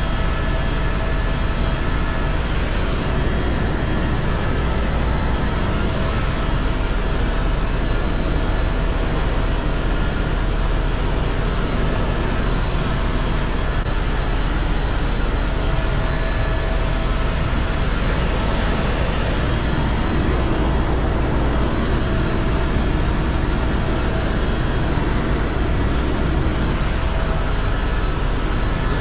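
Tour helicopter in flight: the steady, loud drone of its turbine and rotors, with a strong low rumble underneath.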